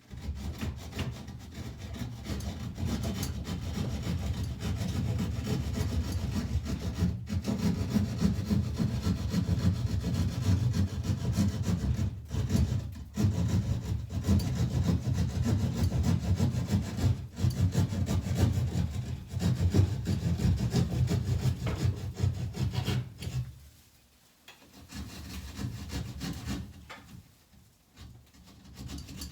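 Hand saw cutting through a marked ceiling board, rapid back-and-forth rasping strokes with a few brief pauses, stopping about 23 seconds in; fainter rasping follows near the end.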